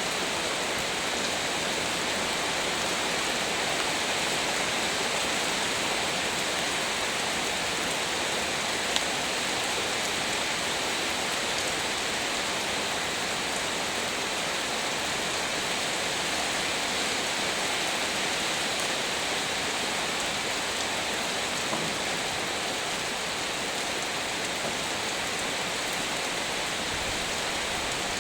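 Heavy rain falling steadily, a dense even hiss with no let-up, with one brief click about nine seconds in.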